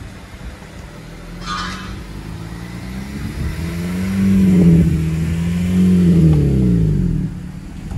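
Honda Civic Si's four-cylinder engine through a muffler-delete exhaust, the note climbing as the revs build, holding high, then falling away near the end as the throttle closes. A short hiss sounds about a second and a half in.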